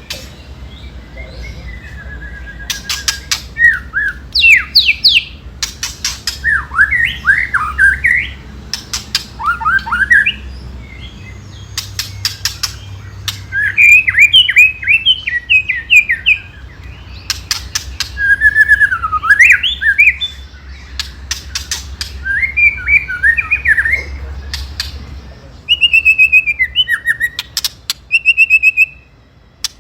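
White-rumped shama (murai batu) song: bursts of quick, varied whistled phrases alternating with harsh rattling clicks, the aggressive 'ketrekan' call. A low steady hum lies beneath.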